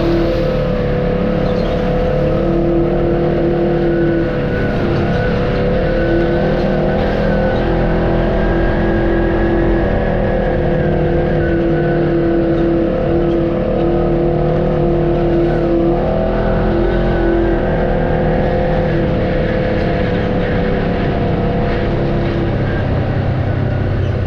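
Off-road vehicle's engine running steadily, its pitch changing only a little.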